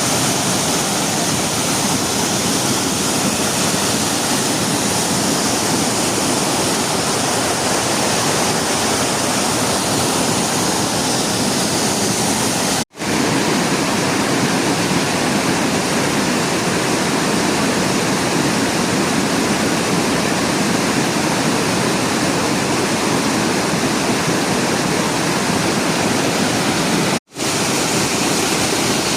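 Steady, loud rushing water, with two brief dropouts, about halfway through and near the end.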